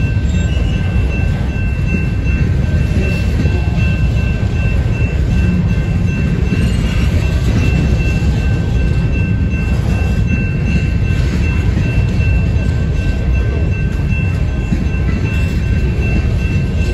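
Covered hopper cars of a freight train rolling past close by, their wheels giving a loud, steady rumble on the rails. Two steady high-pitched tones ring above the rumble throughout.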